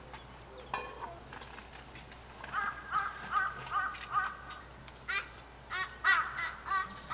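A bird calling in two runs of short, evenly spaced calls. About five calls come about two and a half seconds in, then a louder run of calls follows from about five seconds in.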